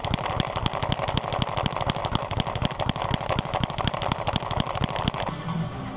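A rapid, even series of sharp knocks, roughly ten a second, that stops about five seconds in.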